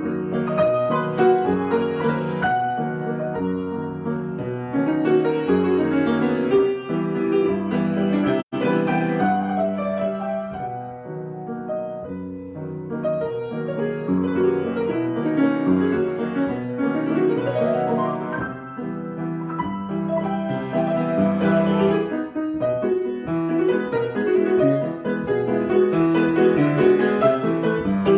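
Solo piano improvisation: chords and melody played continuously, with a split-second dropout in the sound about eight seconds in.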